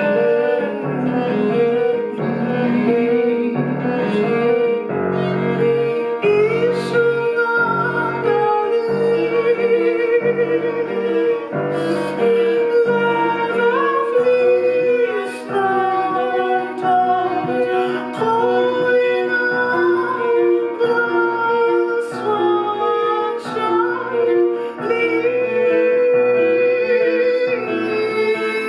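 Live chamber ensemble music: piano with bowed strings such as cello and violin, sustained melodic lines that slide between notes over a low, evenly repeating note pattern.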